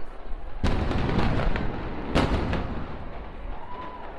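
Fireworks exploding: a loud bang about half a second in, a run of sharp crackling reports, then a second big bang about two seconds in, each followed by a rolling rumble.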